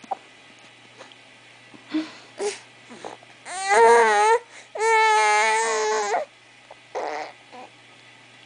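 A baby vocalizing: a few short babbles, then two drawn-out high-pitched sounds in the middle, the first wavering in pitch and the second held steady for over a second, then a couple of short sounds near the end.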